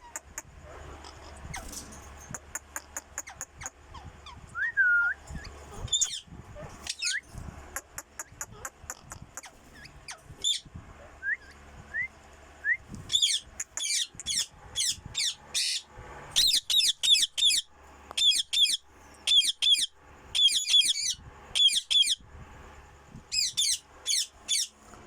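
A female white ringneck parakeet calling. It gives a few scattered short whistles and chirps at first, then from about halfway a long series of loud, harsh repeated shrieks, a few a second, in bunches.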